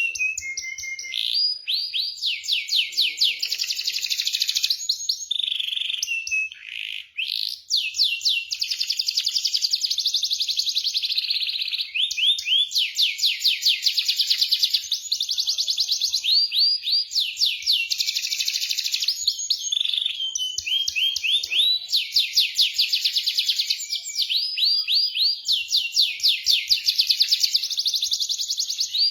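Domestic canary singing a long rolling song: fast trills of rapidly repeated high notes, one phrase running into the next with only brief breaks.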